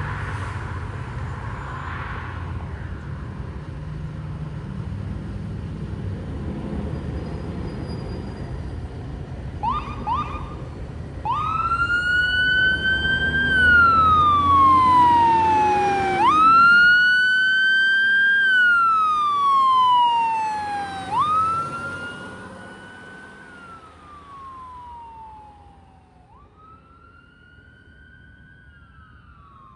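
Fire engine's siren wailing, each cycle rising quickly then falling slowly, after a few short chirps about a third of the way in. The truck's engine runs under it at first, and the siren grows fainter as the truck moves away.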